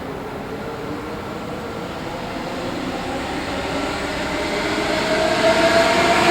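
A train approaching and passing close, its rumble and whine growing steadily louder, with a rising whine strengthening near the end.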